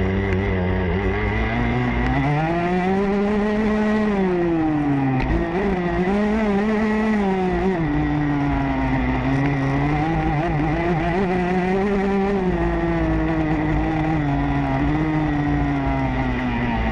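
Motocross bike engine running under changing throttle: its pitch rises and falls repeatedly as the rider opens and closes the throttle, climbing highest about three to four seconds in and again near twelve seconds.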